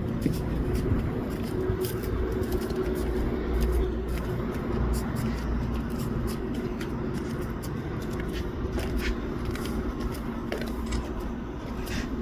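A steady low mechanical hum, like a motor or machine running, with scattered faint clicks and rustles.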